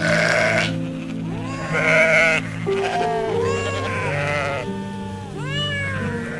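Sheep or goats bleating, a series of quavering bleats with a short cluster near the end, over background music with long held notes.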